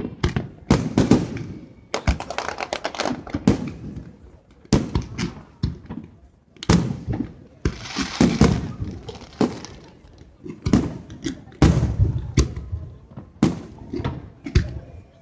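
Fireworks going off in rapid volleys: many sharp bangs, each followed by crackle, with short lulls between the volleys.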